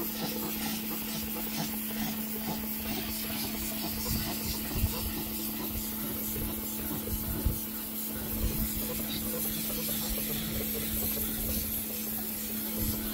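Pressure washer running steadily: its motor hums on one level pitch while the water jet hisses against the patio paving.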